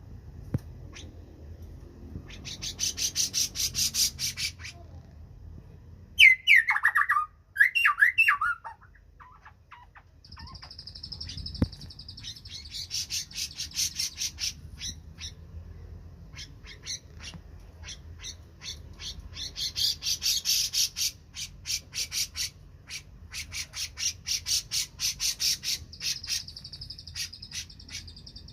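Grey-cheeked bulbul (cucak jenggot) singing in bursts of rapid, high-pitched chattering notes, with loud falling whistled phrases about six to eight seconds in.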